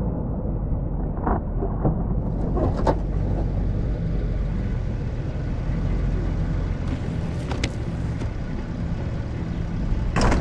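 Snow plow truck's engine running steadily, with a few short knocks and a loud sharp bang near the end.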